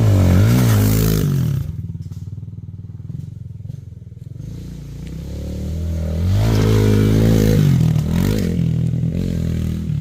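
Yamaha TT-R dirt bike's single-cylinder four-stroke engine revving up and down, dropping to a low, quieter putter about two seconds in, then climbing and revving hard again for a couple of seconds before easing off near the end.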